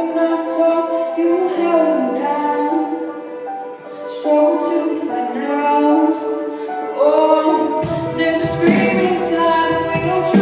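A female voice singing a ballad over accompaniment, with a fuller, deeper accompaniment coming in about eight seconds in.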